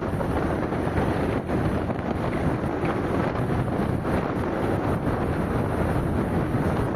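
Steady rush of wind and road noise from a car driving along at speed.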